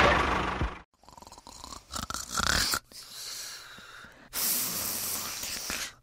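A model tractor's small motor runs and cuts off abruptly within the first second. After a quiet stretch with faint scattered noises, a snoring sound comes in past the middle and runs for about a second and a half.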